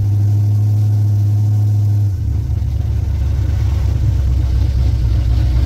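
Car engine running steadily; about two seconds in its pitch steps down and it settles into a lower steady note.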